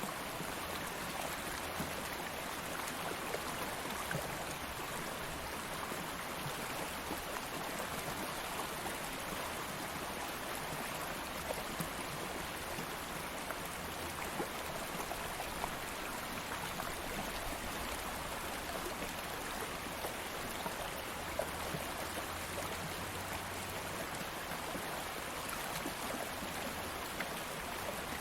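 Stream of water flowing steadily over rocks, a continuous even rush with small splashes and trickles.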